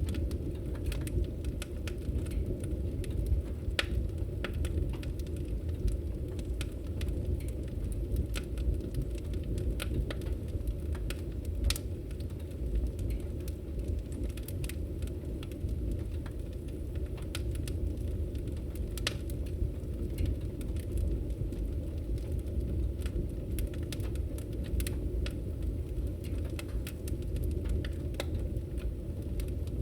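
Wood fire crackling in a fireplace: scattered sharp pops and snaps, several a second, over a steady low rumble.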